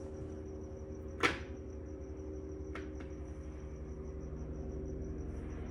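A mahjong tile clacks once onto the table about a second in, then a fainter tile click comes near three seconds, over a steady low hum.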